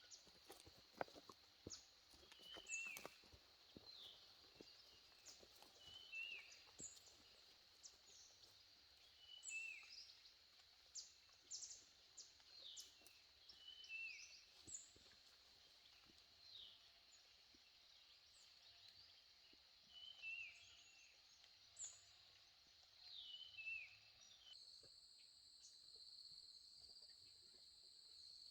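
Faint rural ambience: a bird repeating a short falling call every few seconds over a steady high insect drone, with a few light clicks in the first seconds. Near the end the bird calls stop and a different steady insect buzz carries on.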